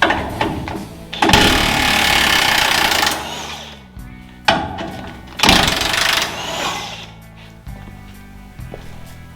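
A power tool run in two loud bursts, the first about a second in and lasting about two seconds, the second about five and a half seconds in and shorter; each winds down with a falling pitch. Background music plays underneath.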